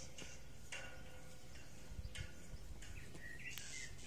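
A small bird chirping a few quick notes near the end, over a faint hiss that comes and goes in short stretches.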